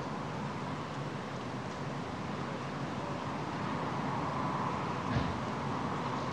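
Steady airplane engine drone, swelling slightly in the second half, with one short thump about five seconds in.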